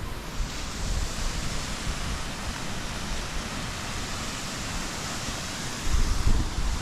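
Steady rushing of flowing water, an even hiss with no pauses, with low wind buffeting on the microphone near the end.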